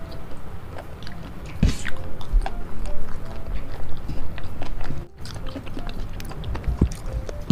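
Close-miked chewing and wet mouth sounds of someone eating spicy boneless chicken feet, with scattered clicks as a wooden fork works through the food on the plate.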